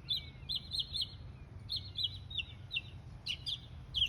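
Small songbirds chirping: quick runs of short, sharp, high notes, three or four at a time, with brief pauses between runs, over a low steady rumble.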